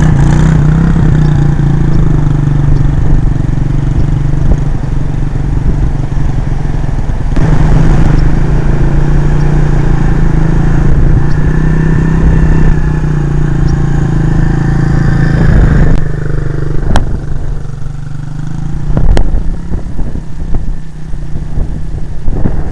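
Honda CRF50 dirt bike's small 49cc single-cylinder four-stroke engine running at a steady speed. After about two-thirds of the way through the steady hum gives way to a rougher, uneven sound with two sharp clicks.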